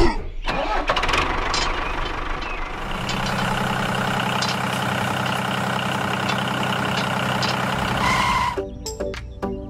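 A heavy vehicle engine running steadily. About a second and a half before the end, music takes over.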